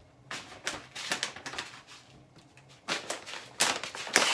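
Hands handling cooking ingredients: bursts of rustling and rattling, loudest in the last second and a half.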